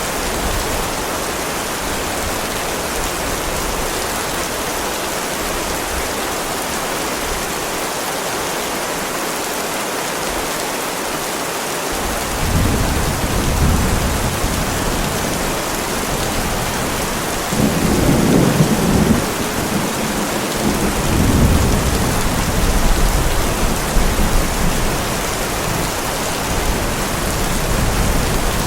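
Heavy rain falling steadily, with rolls of thunder rumbling in about twelve seconds in and swelling louder several times in the second half.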